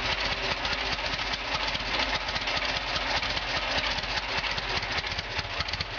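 UD-4 engine idling steadily, a fast even run of firing pulses with no change in speed.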